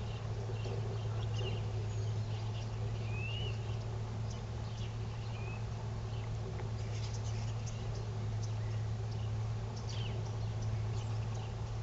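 Steady low hum under outdoor ambience, with a few short, high chirps from small birds.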